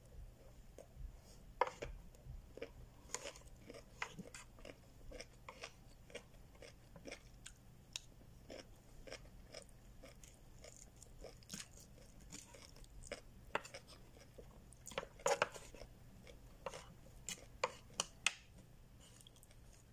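Close-up chewing and mouth sounds while eating, with irregular clicks and scrapes of white plastic utensils against food and container; a run of louder clicks comes about fifteen seconds in and again near the end.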